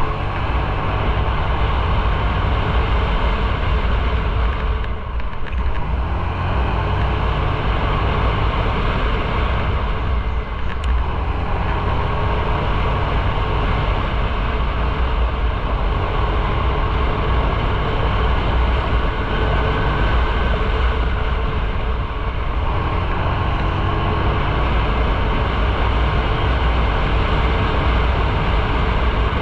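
Motorcycle riding at road speed: engine running under heavy wind rush on the microphone, with the sound dipping briefly three times.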